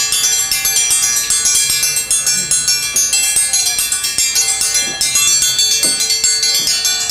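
Bells jingling and ringing on and on in a fast, shimmering clatter of many overlapping metallic tones, with a few short rising-and-falling calls from about three seconds in.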